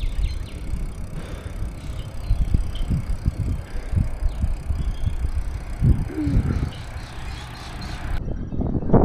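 Bicycle riding: a steady rolling noise with an uneven low rumble and scattered low thumps, the kind wind and road buffeting make on a body-worn microphone.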